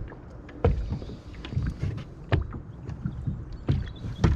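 Irregular knocks and thumps on the hull of a small Whaly 435 rotomoulded plastic boat, four or five over a few seconds with the loudest near the end, as a hooked perch is brought aboard.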